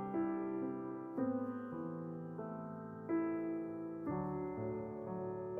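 Slow, soft piano music: single notes and chords struck about once a second and left to ring.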